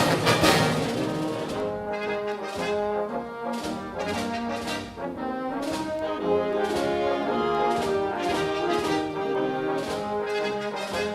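Brass band playing a tune, with held brass notes over regular drum beats.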